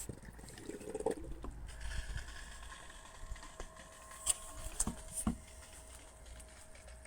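LanBlu battery-powered pool vacuum with water sloshing around it; its motor starts a steady whine about two seconds in, switched on by water entering the unit. A few sharp knocks follow in the middle.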